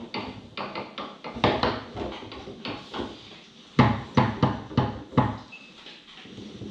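Foosball play on a Tornado table: the hard ball clacking against the players and the table walls in a rapid string of sharp knocks. A burst of about five harder hits comes a little after halfway.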